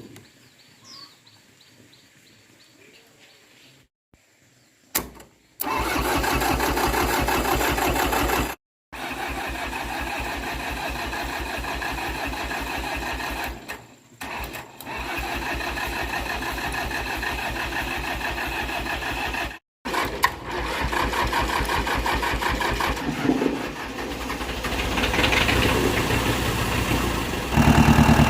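ST 2320 tractor's engine starting and running with a steady pulsing beat, in several short takes broken by abrupt cutouts. It gets louder near the end.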